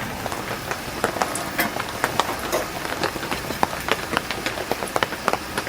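Heavy rain falling on an inflatable tent's fabric: a steady hiss scattered with many irregular sharp drop ticks.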